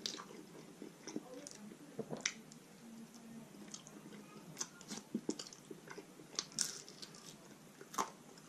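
A person biting and chewing roast chicken meat, with wet smacks and sharp mouth clicks at irregular intervals.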